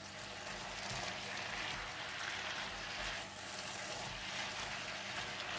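Spinach and fish balls in a thickened gravy sizzling steadily in a nonstick pan as they are stirred with a silicone spatula.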